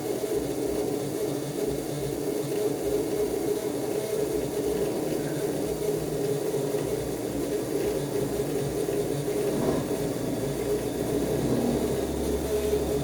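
Electrolux LAC13 13 kg top-loading washing machine filling its drum with water, a steady stream of running water near the end of the fill.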